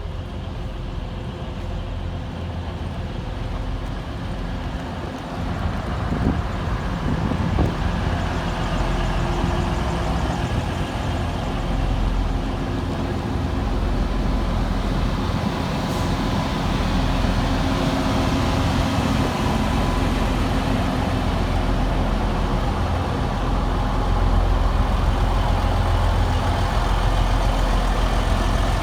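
Diesel multiple unit's underfloor diesel engines running steadily at a platform, a low rumble with a few knocks partway through. The engines grow a little louder near the end.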